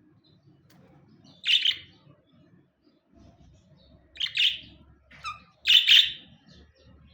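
Budgerigar chirping: short, loud chirps, about 1.5 seconds in, then a cluster of three more near the end.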